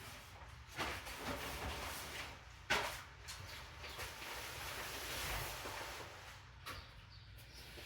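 A 5.7-litre LS1 V8 of a 2002 Camaro SS idling steadily during a cold start, with a few sharp knocks over it, the loudest about three seconds in.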